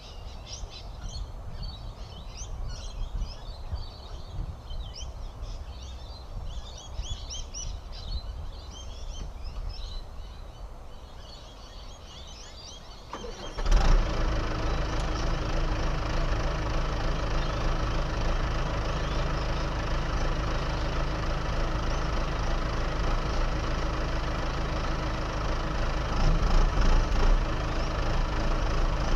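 Birds chirping over a low rumble; about fourteen seconds in, a diesel engine on earthmoving machinery starts suddenly and keeps running steadily, getting louder near the end.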